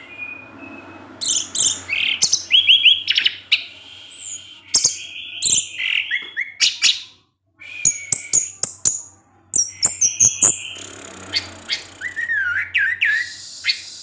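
Orange-headed thrush (anis merah) singing a varied 'teler' song: quick whistled phrases, slurred notes and chattering clicks, broken by a brief pause about seven seconds in.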